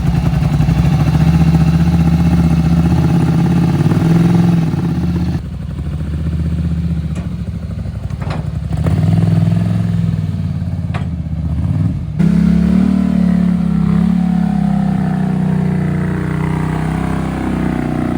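A vehicle engine running at low speed, its note changing abruptly about five seconds in and again about twelve seconds in.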